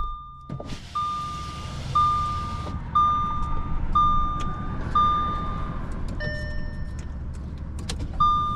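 Audi's dashboard warning chime beeping about once a second on one steady tone, switching to a different warning tone about six seconds in before the first beep returns, with the ignition on and the engine not starting. A short hiss about a second in.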